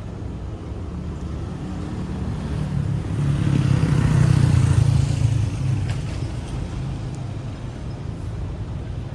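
Motorbike engine running in street traffic, with road noise, growing louder about three seconds in and easing off again after a couple of seconds.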